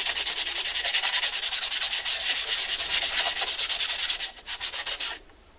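Electric motorcycle brake pad rubbed back and forth by hand on sandpaper laid on a flat surface, in rapid even strokes that stop shortly before the end. The pad face is being lapped clean of salt, sand and dirt picked up in transport, to cure squealing brakes.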